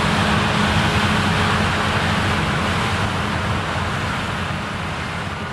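Claas Lexion combine harvester running steadily in a rye harvest: a deep engine drone under a broad rushing hiss. It grows gradually quieter over the last couple of seconds.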